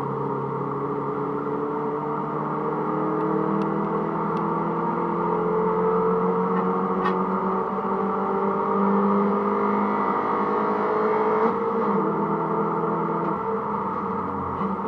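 Mini Cooper S (R53)'s supercharged four-cylinder engine pulling under load on track, its pitch climbing slowly for about eleven seconds. A gear change follows, and the engine carries on pulling at a lower pitch.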